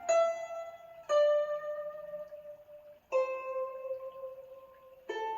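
Recorded music played back through a pair of JBL L46 loudspeakers driven by a Kenwood KR-6050 receiver. It is a slow melody of four single notes, each struck and left to ring out, stepping down in pitch.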